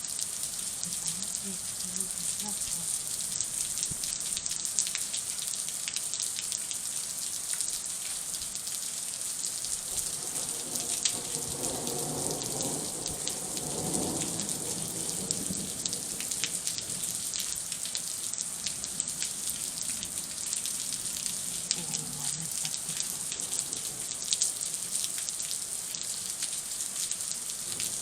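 Steady heavy rain falling, with many sharp drop ticks close to the microphone.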